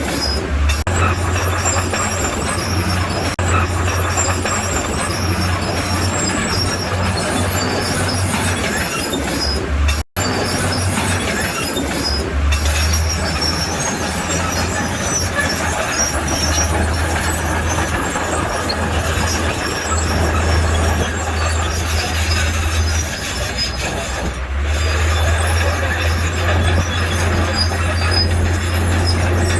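Crawler bulldozer at work: its diesel engine runs with a steady low drone under the squeal of its steel tracks. The sound drops out for an instant about a third of the way in.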